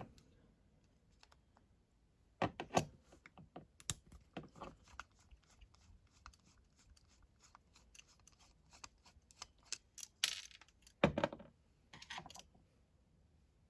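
Small metal clicks, taps and a few louder knocks from tools and carburettor parts being handled while the pilot jet is taken out of a small 50cc carburettor, with a short hiss near the ten-second mark.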